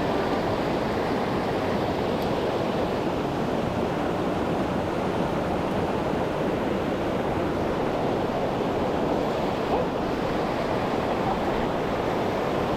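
Mountain stream water rushing steadily over rocks, an even, unbroken noise.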